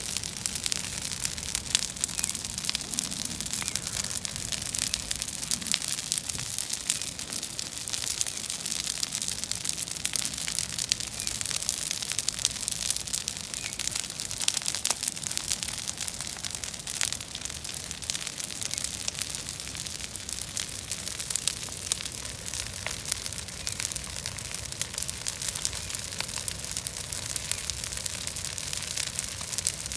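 Bonfire of invasive weeds burning, crackling continuously with a dense run of small pops.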